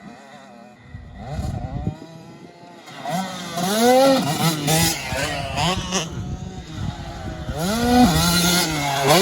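Dirt bike engines revving up and down as riders work the track, the pitch rising and falling with the throttle. It starts faint and gets loud about three seconds in.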